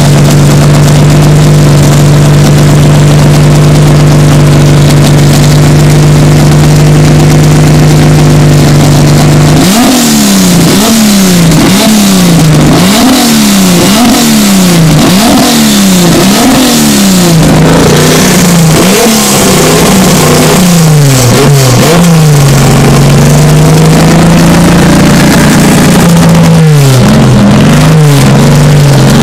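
Ford Falcon engine heard from behind the exhaust, held at a steady speed for about ten seconds, then blipped repeatedly, about one rev a second, each rev rising and falling in pitch. It settles to a steady note for a few seconds and then is revved again near the end.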